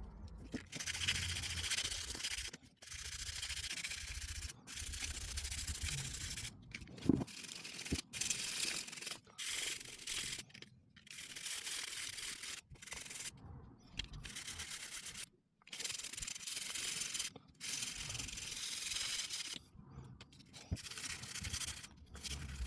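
Hand sanding with 600-grit wet and dry paper wrapped round a small flat wooden block, flatting back dried stopper filler on a vice body: a long run of rasping back-and-forth strokes, each lasting a second or two, with short pauses between them.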